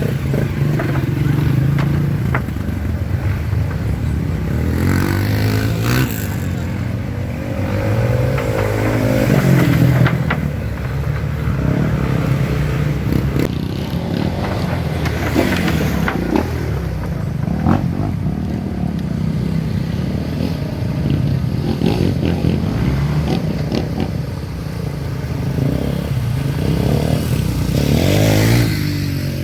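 Off-road trail motorcycle engines running and revving, their pitch rising and falling over and over as the throttle opens and closes.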